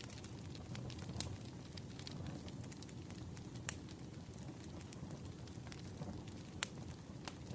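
Wood fire crackling: sharp, scattered pops every second or two over a low, steady rumble.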